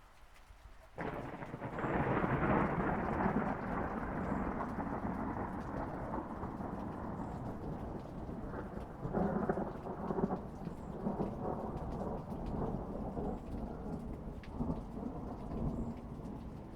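A thunderclap breaks suddenly about a second in and rolls on as a long rumble over steady rain, with fresh cracks of thunder around the middle before it slowly dies away.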